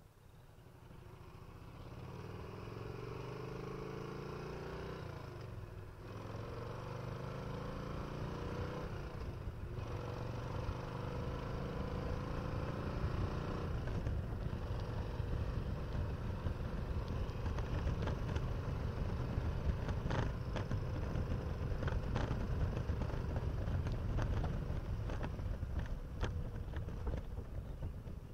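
1994 Harley-Davidson Electra Glide's 1340 Evolution V-twin pulling away from a stop. Its note rises through the lower gears, with a shift about every four seconds, then it runs steadily at cruising speed.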